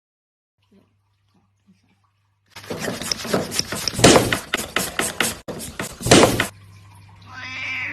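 A run of irregular thumps and knocks lasting about four seconds, starting a couple of seconds in after near silence, over a faint low hum.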